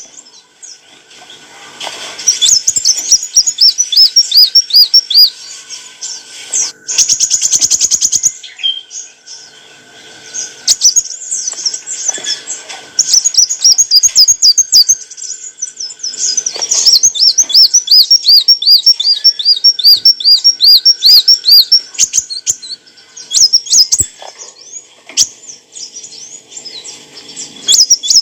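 Kolibri wulung sunbird singing: fast runs of high, thin chirps, many a second, broken by short pauses, with a brief dry rattle about a quarter of the way in.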